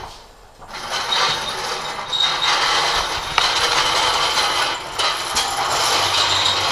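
A steady mechanical running sound with a high squeak, starting about a second in.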